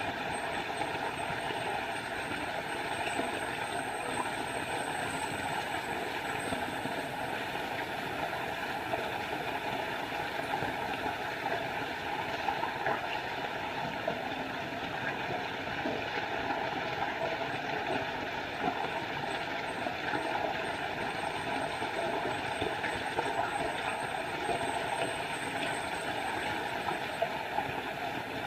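Small forest waterfall: a steady rush of falling water. A thin high-pitched sound sits over it for the first several seconds and again later on.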